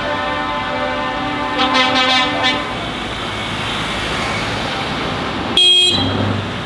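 Lorry air horn sounding a long blast of about two and a half seconds over the steady running of truck engines, then a short, loud toot about five and a half seconds in.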